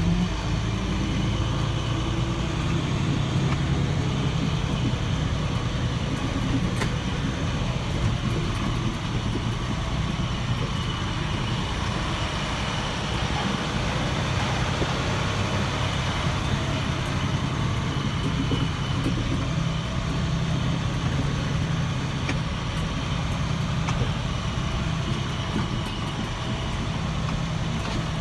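Dump truck's diesel engine running steadily, a low even hum with no change in pace.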